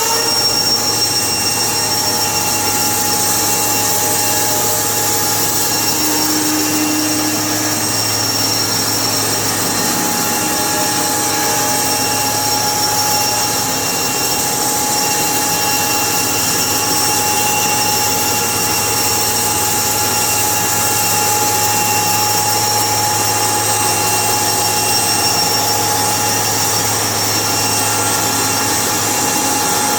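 Sawmill machinery running steadily: a continuous loud drone with a steady high whine that does not change.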